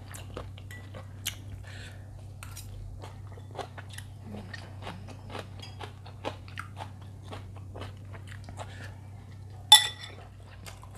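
Close-up chewing of a mouthful of bakmie noodles and toppings: many small wet clicks and smacks. A single loud ringing clink near the end.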